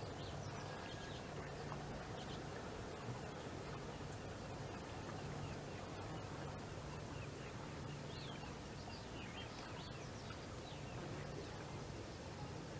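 Outdoor ambience of many faint, short bird chirps, more of them in the second half, over a steady low hum that swells and fades every second or so.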